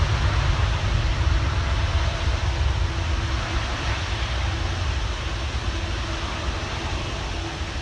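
Jet airliner's engines rumbling as it moves away, a broad roar with a deep low end that slowly fades.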